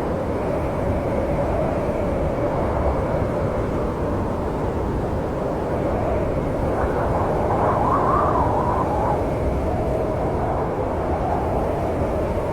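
Snowstorm wind blowing steadily with a low rumble and a wavering howl that swells and rises in pitch in a gust about seven to nine seconds in.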